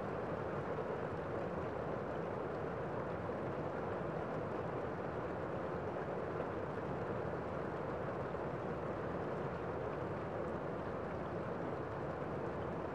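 Gentle rain falling steadily on a window, an even hiss with no separate drops standing out.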